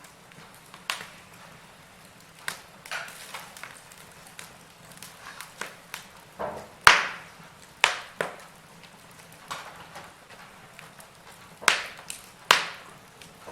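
Wood fire crackling: irregular sharp pops and snaps from burning logs over a faint hiss, with a few louder pops about halfway through and near the end.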